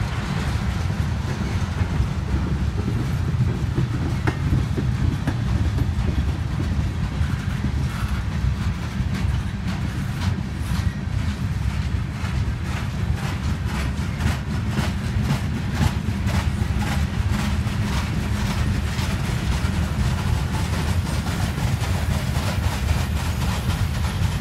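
Freight train cars, tank cars and a gondola, rolling past close by: a steady low rumble with repeated clicking of wheels on the rails, the clicks coming thicker from about a third of the way in.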